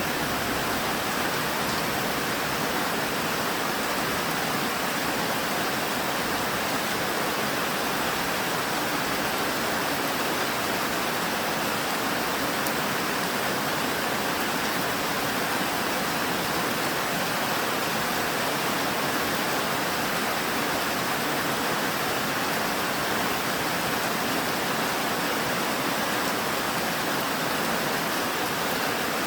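Steady rain falling, an even hiss with no pauses or single drops standing out.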